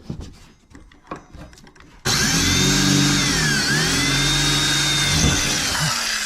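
A few light clicks and knocks, then about two seconds in a power drill starts abruptly and runs steadily. Its pitch dips and recovers briefly midway, as if under load.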